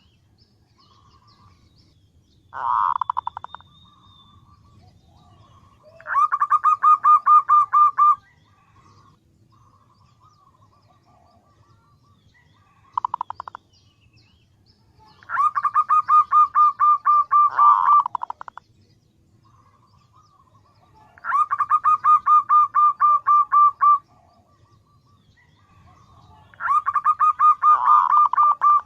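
Female zebra dove (perkutut) calling to draw males: rapid runs of short, evenly pulsed cooing notes, four runs of about two to three seconds and two short bursts, with softer notes between them.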